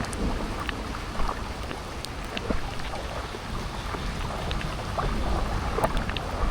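Rain falling, with scattered sharp drop ticks and a low wind rumble on the microphone.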